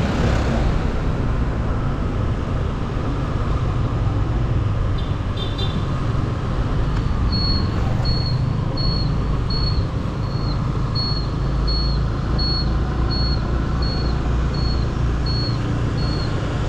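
Motorbike engine running steadily with road and wind noise. About seven seconds in, a high electronic beep starts repeating about one and a half times a second, like a turn-signal or warning beeper.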